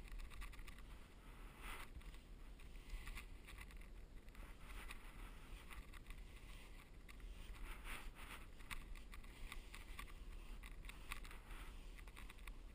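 Damp sponge rubbing over drywall joint compound in faint, irregular swishing strokes, wet sanding the patch smooth.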